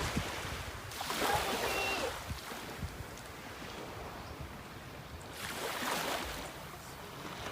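Wind and splashing sea water, rising in two surges of rushing noise, one about a second in and one near the end.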